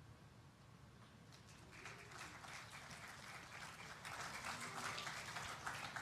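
Audience clapping, starting about a second and a half in and building up, over a steady low hum.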